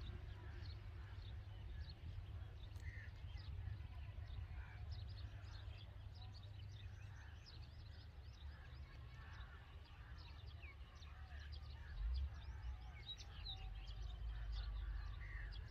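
Red-vented bulbuls chirping at the nest, many short high chirps in quick succession, over a steady low rumble. A brief low thump about twelve seconds in.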